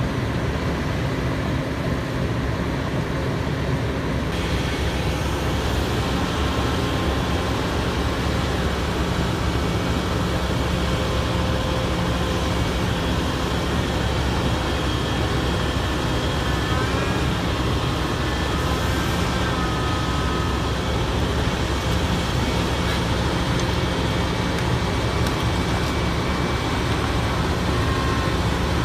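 Heavy diesel engines running steadily, a deep continuous drone with a few faint wavering whines in the middle.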